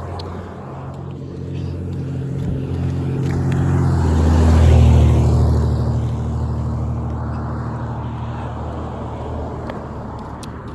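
A road vehicle's engine passing, with a steady low drone whose pitch shifts about four seconds in. It grows louder to a peak around five seconds in, then slowly fades; no horn sounds.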